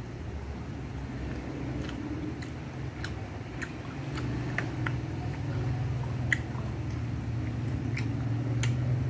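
Close-up eating sounds of a person chewing a mouthful of rice and chicken adobo eaten by hand: wet chewing with scattered small smacks and clicks. A steady low hum runs underneath, a little stronger in the second half.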